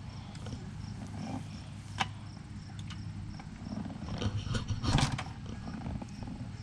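A 125 dirt bike being kick-started without the engine firing, with a sharp knock about two seconds in and a louder kick near the end, over a low rumble. The bike is out of gas.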